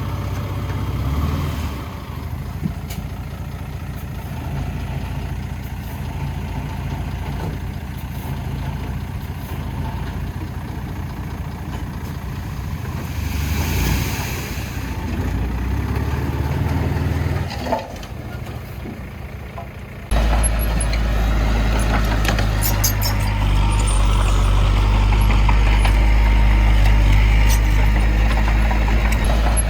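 Diesel engines of heavy earthmoving machinery (dump truck and bulldozer) running steadily, with a short hiss about 14 seconds in. About 20 seconds in the sound switches abruptly to a louder, deeper engine running steadily.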